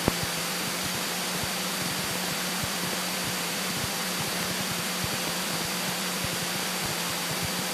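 Cessna 172K in level cruise flight: the cabin noise of its Lycoming four-cylinder engine and propeller, an even hiss with a faint low steady hum.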